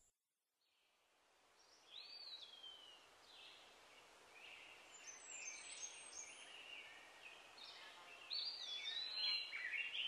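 Outdoor ambience fading in after a brief silence, with birds singing: a falling whistled note about two seconds in, then chirps and calls that grow busier and louder near the end.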